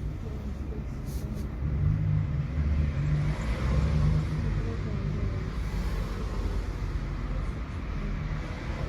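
Tram in motion: a steady low rumble of the car running on its rails, with a humming tone from the drive for a couple of seconds from about two seconds in, and a few faint clicks about a second in.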